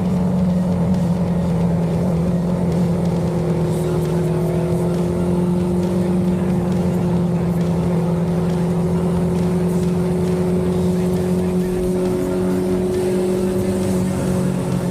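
Sport motorcycle engine running at a nearly constant engine speed, its pitch holding steady.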